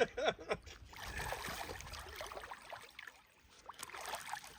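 River water running: an even rushing with gurgles, dipping briefly about three seconds in. A few words of speech are heard at the very start.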